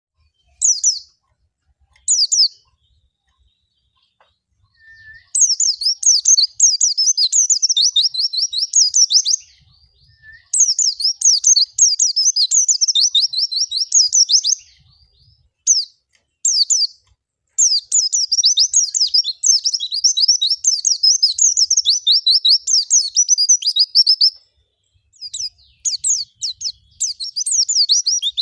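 White-eye (pleci) singing: two short high calls, then long runs of rapid, high-pitched twittering song broken by short pauses. This is the full, busy 'gacor' song used as a lure recording to set caged white-eyes singing.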